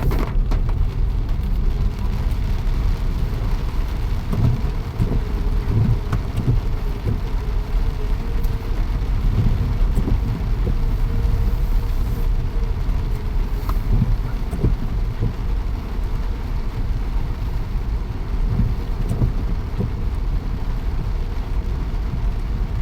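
Steady low rumble of a vehicle running, with rain noise over it.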